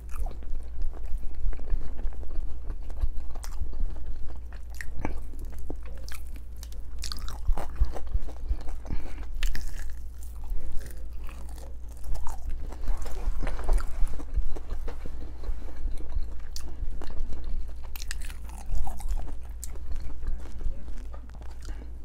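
Biting and chewing into a red-coated fried chicken wing: irregular crunches and bites throughout, over a steady low hum.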